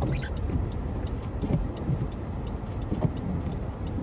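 Car interior noise while driving on a highway: a steady low rumble of engine and tyres, with light scattered ticks.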